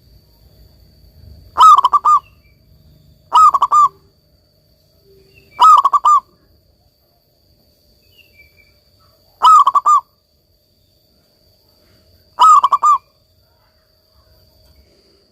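Zebra dove (perkutut) cooing loudly: five short calls of quick, rolling notes, spaced a few seconds apart.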